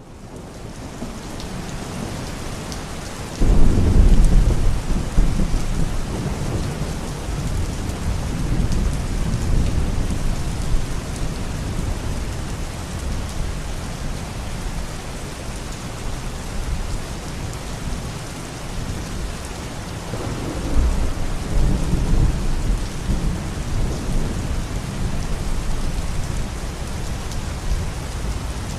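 Steady heavy rain fading in, with two long rolls of thunder: the first breaks suddenly and loudly about three and a half seconds in, the second comes about twenty seconds in.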